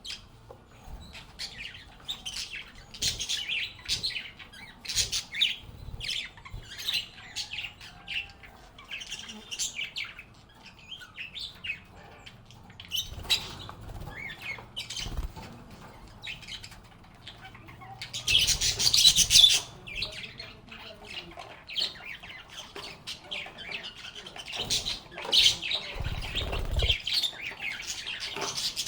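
Lovebirds chirping and chattering in quick, short high calls, with a louder, noisier burst lasting about two seconds a little past the middle.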